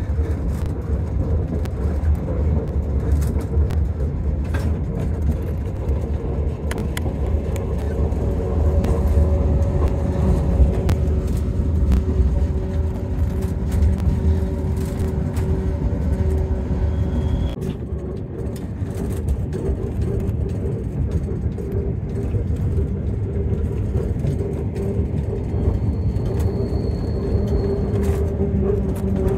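Yellow Train narrow-gauge electric railcar running, heard from inside the carriage: a steady deep rumble from the wheels on the track with scattered clicks and a steady hum. The deep rumble eases a little over halfway through while the hum and clicking continue.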